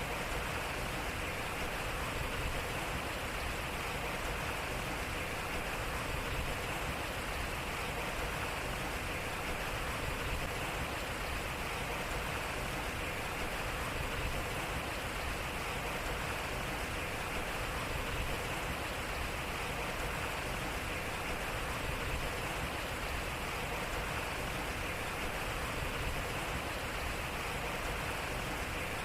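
Water running and splashing steadily at a turning water wheel.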